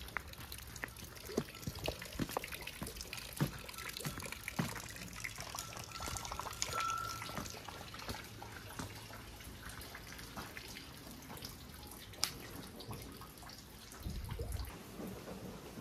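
Rainwater dripping and trickling, with many irregular drops ticking.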